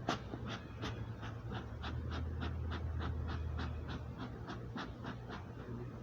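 Beekeeper's smoker bellows being pumped quickly, a regular series of short breathy puffs of air at about four a second, over a low steady hum.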